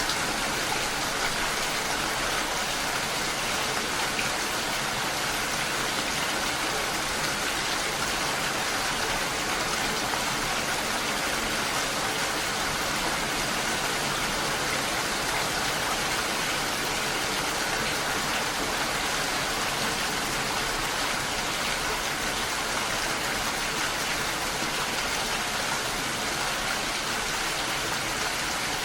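Steady rain mixed with the rush of a waterfall: an even, unbroken hiss of falling water.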